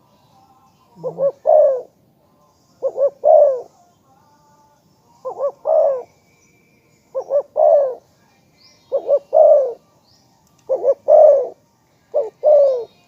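Spotted dove cooing: seven phrases about two seconds apart, each two short quick notes followed by a longer falling coo. Faint chirps of small birds sound between the phrases.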